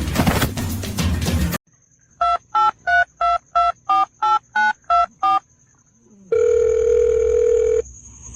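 Music cuts off about a second and a half in, then a phone keypad dials eleven digits, short two-tone beeps about three a second, followed by a steady tone for about a second and a half, like a line tone as the call goes through.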